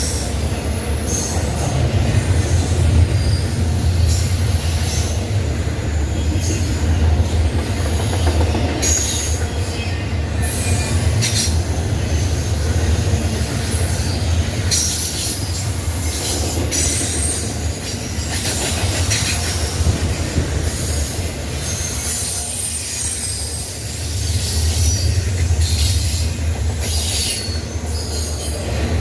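Norfolk Southern freight train rolling past, the cars making a steady low rumble broken by short, high wheel squeals at irregular moments.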